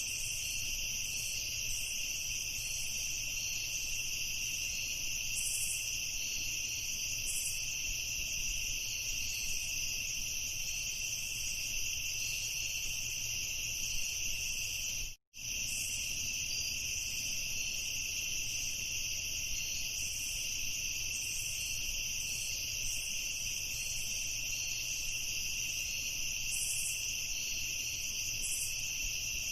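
Crickets trilling in a steady night chorus, with a few fainter pulsing chirps higher up. The whole sound cuts out for a split second about halfway through, then resumes unchanged.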